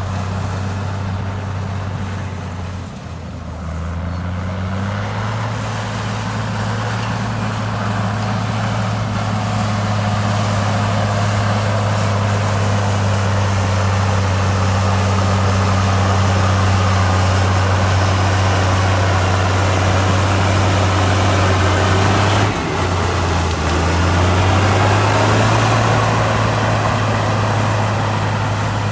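Heavy-equipment diesel engine running under steady load. Twice, about three seconds in and again near the end, the engine drops in pitch for a moment and then revs back up.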